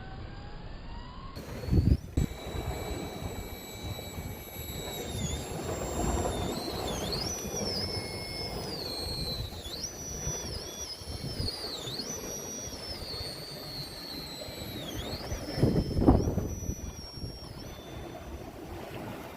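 3Brothers Yellow Jacket 2000kV brushless motor in an RC rock crawler whining, its pitch rising and falling again and again with the throttle, over a low rumble. There are loud bumps about two seconds in and again near the end.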